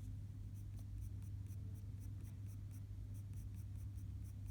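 Coloured pencil scratching across paper in quick short strokes, about four or five a second, as fur is shaded in. A steady low hum runs underneath.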